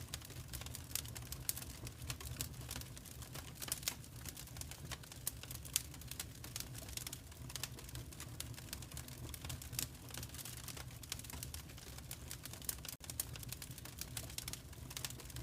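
Fireplace fire crackling: a dense, irregular run of small pops and snaps over a steady low rumble, with a momentary dropout near the end.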